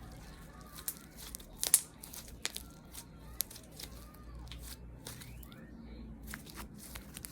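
Irregular crackling and crinkling made close to the microphone as ASMR sounds, with one sharper snap about a second and a half in.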